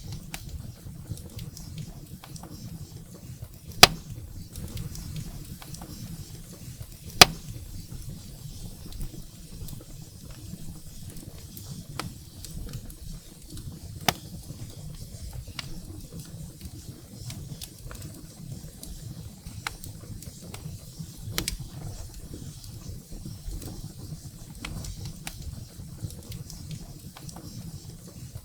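Firewood burning in a fireplace: a steady low rumble of flames with scattered sharp pops and crackles, two loud pops in the first eight seconds.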